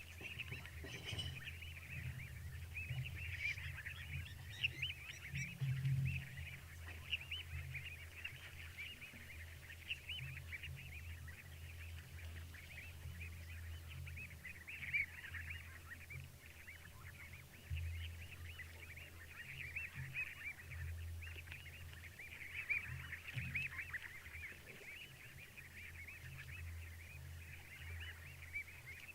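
A dense chorus of many frogs calling at once, an unbroken overlapping din, over a low steady rumble that swells now and then.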